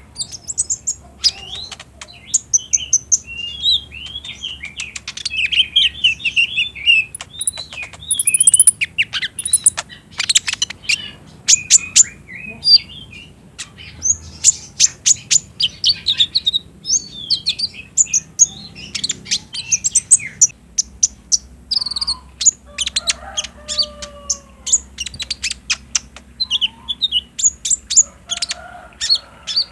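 Kolibri ninja sunbird song: rapid, sharp high-pitched chirps and twittering trills in dense runs. A few lower gliding whistles come in about two-thirds of the way through.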